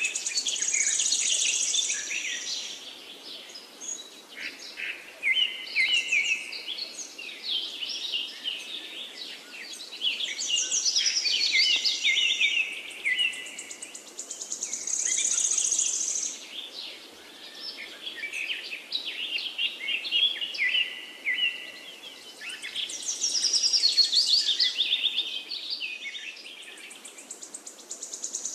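Forest birdsong: several songbirds singing overlapping phrases of rapid notes, with a high, buzzy trill coming back about every fourteen seconds over a faint steady background hiss.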